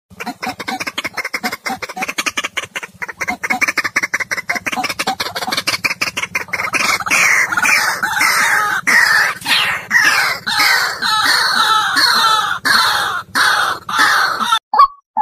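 White-breasted waterhen calls: a fast run of short clucking notes builds, about halfway through, into loud repeated falling croaks about twice a second, over a steady low hum. All of it stops abruptly shortly before the end.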